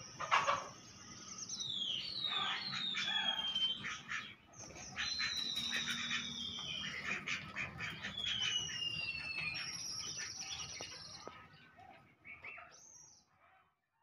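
Birds calling: a series of high whistled calls, several drawn out for a second or more and sliding down in pitch, with a few short clicks. The calls thin out after about eleven seconds.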